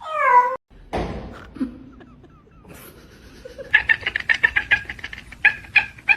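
A cat's short meow, falling in pitch. After a break comes a fast run of short, high chirps, about four a second.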